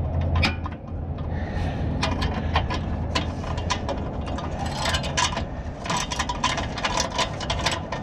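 Metal clicks, knocks and scraping of tools working the new muffler tight onto the lawn mower's exhaust pipe, over a steady low hum.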